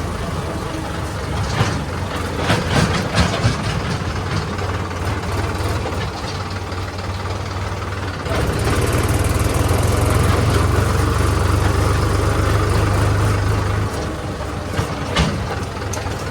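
Diesel engine of a tractor-scale machine running at a steady idle, running louder for several seconds in the middle, with a few sharp knocks near the start and again near the end.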